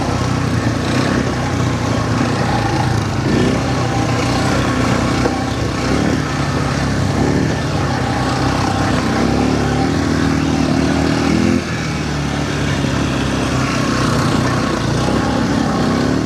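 Quad bike engine running while riding, its revs rising and falling as the throttle changes, with a brief easing off about two-thirds of the way through.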